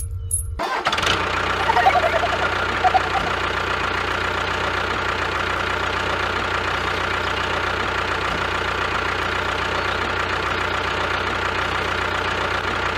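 An engine running steadily at an even level. It cuts in abruptly about half a second in, replacing a low hum.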